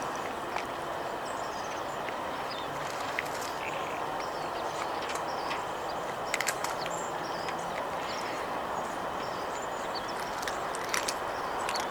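Outdoor ambience: a steady background hum with faint, scattered high bird chirps and a few short clicks around the middle and near the end.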